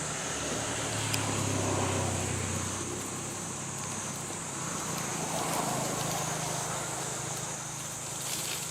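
Motor vehicle engine hum that swells twice, as traffic passes about two seconds in and again around five to six seconds in.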